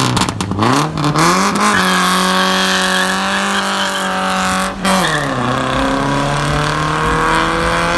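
A car engine revved hard twice, then held at steady high revs with tyres squealing. About five seconds in the revs drop, then climb slowly again.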